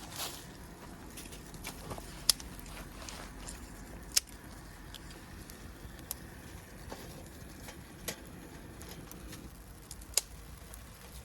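Wood campfire crackling, with five or so sharp pops spaced a couple of seconds apart over a low steady rush.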